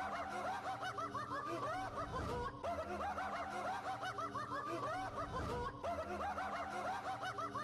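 High-pitched laughter, a fast unbroken run of short rising-and-falling giggles, over steady low tones.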